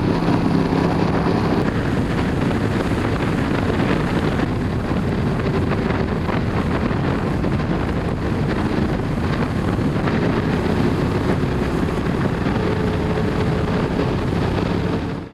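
Wind buffeting the microphone of a moving motorcycle, with the bike's engine running underneath at a steady cruise. The sound cuts off suddenly near the end.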